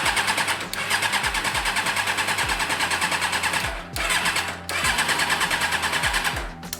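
A Suzuki GSX-R sportbike's electric starter cranking its inline-four engine in three bursts with short pauses between, the motor turning over fast and evenly without firing. It is a no-start after three years of storage, with the choke on, which the riders blame on old fuel or a spark plug problem.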